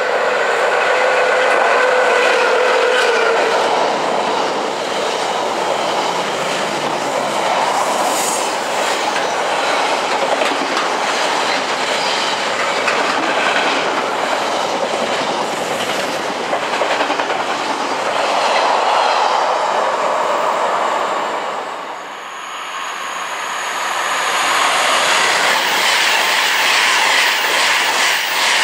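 A container freight train passes at speed, with a steady tone from its locomotive in the first few seconds and then the rhythmic clickety-clack and rumble of the container wagons. Near the end the noise dips briefly, and a Class 390 Pendolino electric train rushes past.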